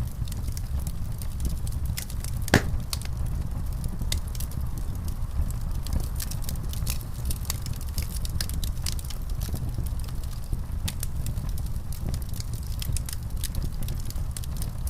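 Fireplace fire crackling, with many small pops over a low steady rumble; one louder pop about two and a half seconds in.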